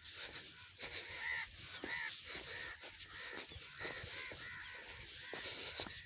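Crows cawing over and over, a run of short harsh calls coming several times a second.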